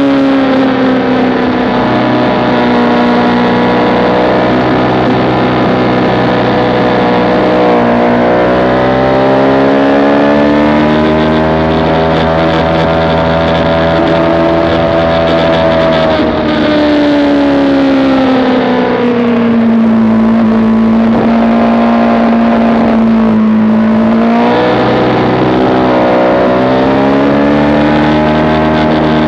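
Motorcycle engine heard from an onboard camera while lapping a track. The engine note rises and falls slowly with engine speed, with a few sudden drops in pitch as the revs fall away.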